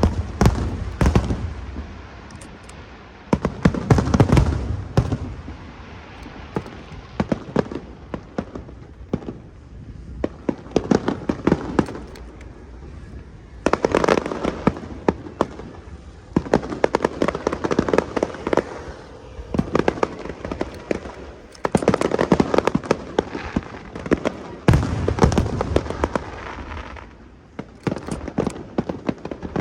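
Aerial fireworks going off: deep booms near the start, about four seconds in and again near the end, with waves of dense crackling between them.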